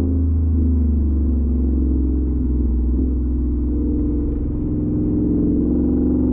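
Whipple-supercharged 5.0 V8 of a 2022 Ford F-150 with a cat-delete Y-pipe and a Magnaflow straight-through muffler, heard from inside the cab with the windows up while cruising. Its exhaust makes a steady deep drone that dips slightly about halfway through and then picks back up.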